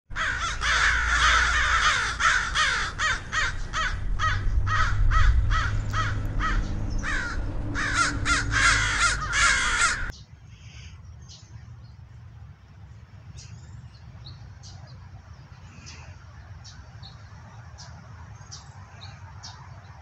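Harsh bird cawing, many calls in quick succession, loud over a low rumble, stopping abruptly about halfway through. After that, faint outdoor background with scattered short, high bird chirps.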